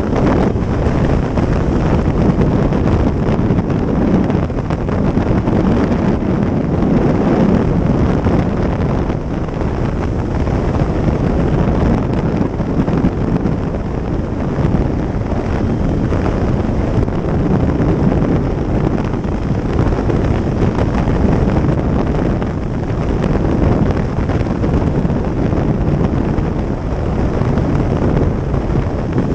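Wind rushing over the microphone of a motorcycle rider's camera at riding speed, a steady loud buffeting roar that covers the engine and road noise beneath it.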